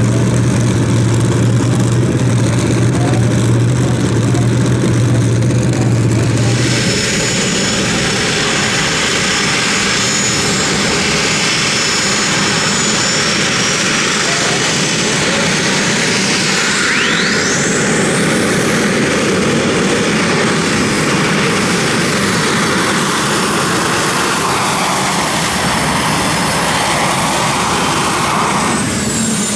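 Competition pulling tractor's engine running hard: a steady low hum that opens up about seven seconds in into a loud full-throttle roar with a high whine over it and a rising whistle partway through.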